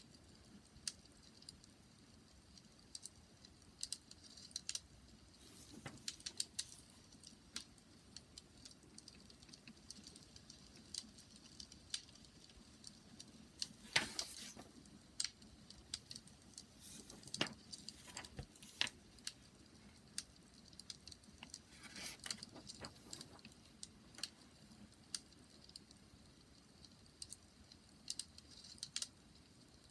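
Wood fire crackling: irregular small snaps and pops over a faint steady hiss, with a few louder pops around the middle.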